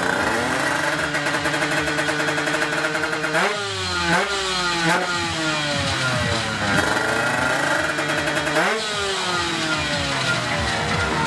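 Tuned Kawasaki Ninja two-stroke drag-bike engine revving. It rises and holds high, then falls away in steep drops twice, about a third of the way in and again near the end.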